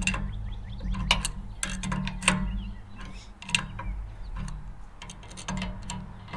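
Ratchet wrench clicking in short irregular runs as the bolts of a bearing separator are tightened, over a steady low rumble.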